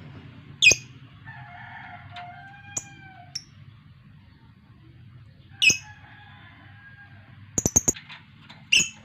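Lovebird giving loud, sharp, high-pitched chirps: one about a second in, another near six seconds, a quick run of four near the end, then one more. Fainter whistled notes come in between.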